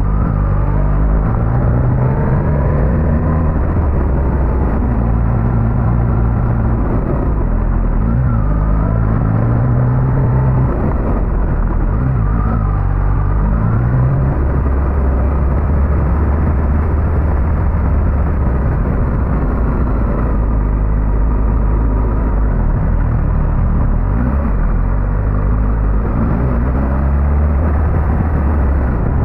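Suzuki GSX-S1000GT's inline-four engine running while riding. The pitch rises and falls several times over the first half, then holds steadier.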